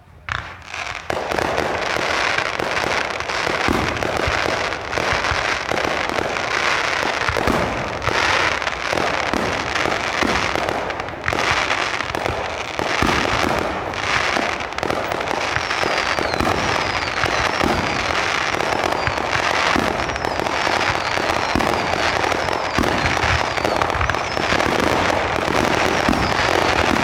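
Consumer fireworks going off in a dense barrage, starting abruptly: continuous crackling and popping with frequent sharp bangs. From about halfway, short whistling glides mix in.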